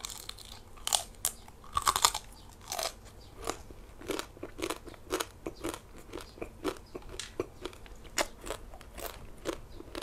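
A person biting and chewing crunchy roasted pork, a steady run of crisp crunches about three a second, with louder bites about one and two seconds in.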